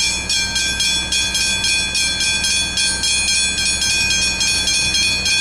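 Level crossing warning bell ringing rapidly, about three strikes a second, each with a bright, high, ringing tone.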